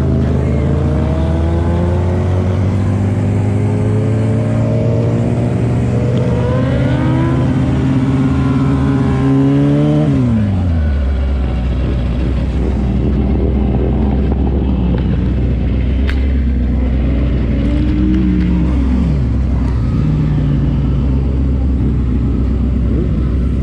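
A vehicle's engine pulling with rising revs, then dropping sharply about ten seconds in to a low, steady note. It revs up briefly once more near eighteen seconds and settles again, over steady road and wind noise.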